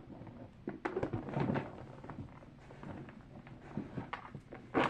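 Small fidget toys being handled and sorted by hand: scattered light taps, knocks and rustles as pieces are picked up and set down.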